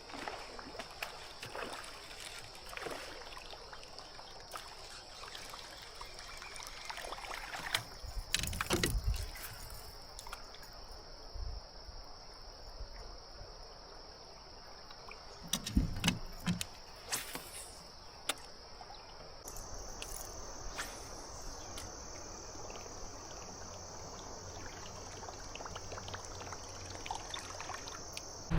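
Water trickling and dribbling around a fishing kayak, with a thin steady high whine throughout that steps slightly higher about two-thirds of the way through. Two dull low thumps stand out, one about a third of the way in and one past the middle.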